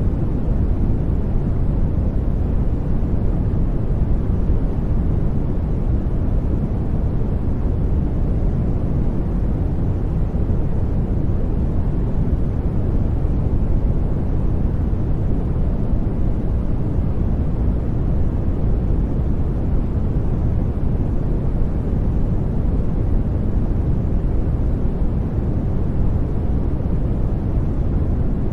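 Steady generated sleep noise, soft white noise, even and unchanging, weighted heavily toward the deep end so it sounds like a low rumble with little hiss.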